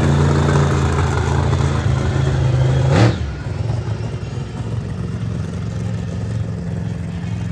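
Monster truck's supercharged V8 engine held at high revs, then a sharp crack about three seconds in, after which the engine drops to a lower, quieter note.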